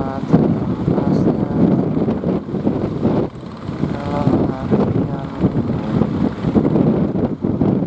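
Strong wind buffeting the microphone in a fluctuating rumble, over the engines of fishing boats running.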